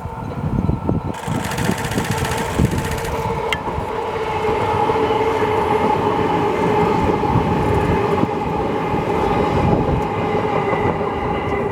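JR East 209-series Mue-Train electric test train running past on the track: wheels rumbling and clattering over the rails, with a steady whine in two tones that sinks slightly lower as it goes. A brief hiss sounds about one to three seconds in.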